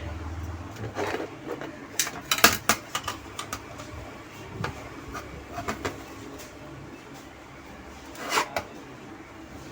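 Scattered clicks and taps of hand tools working on a circuit board, busiest about two to three seconds in, with a short scraping rasp near the end.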